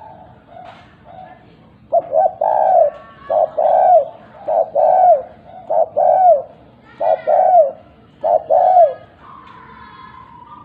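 Spotted dove (derkuku) cooing a loud two-part call over and over: about six phrases, each a short 'kuk' followed by a longer arched coo, roughly one phrase a second, with fainter coos before them. It is the kind of song used as a lure to set other doves calling. A faint steady tone follows near the end.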